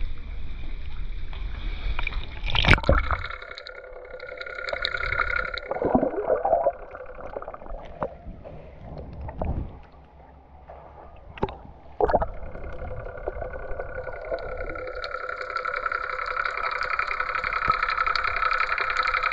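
Motorboat engine running, its steady drone dropping away in the middle and coming back strongly after about twelve seconds, with water splashing and a few sharp knocks.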